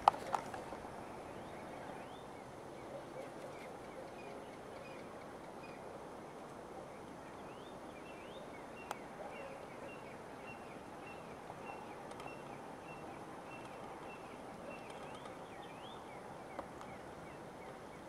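Small birds chirping, short high rising notes repeated a few times a second, over a steady background hiss. A sharp click sounds about nine seconds in.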